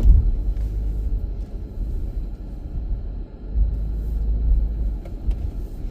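Low, steady rumble of a car driving slowly, heard from inside the cabin: engine and tyre noise.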